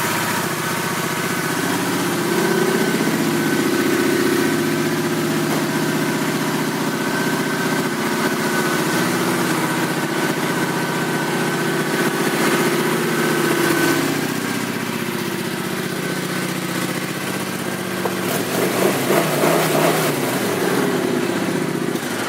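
Kawasaki Vulcan 900 Classic LT's 903 cc V-twin engine idling, its pitch rising and falling slightly a few times with light throttle, and more unevenly near the end.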